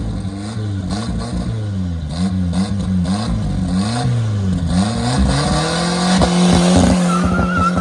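A race car engine being blipped over and over, the revs rising and falling in quick arcs, then held steady at high revs for the last couple of seconds.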